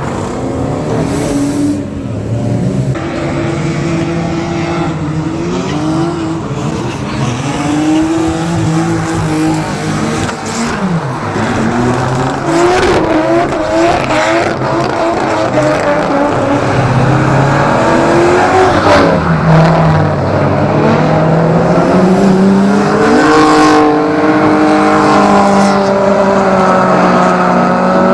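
Drift cars' engines revving hard, the pitch climbing and dropping again and again, with tyres squealing as the cars slide. The sound grows louder toward the end.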